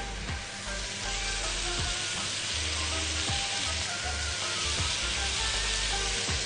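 Chicken pieces, peas and carrots sizzling steadily in a frying pan as they are sautéed and stirred with a silicone spatula.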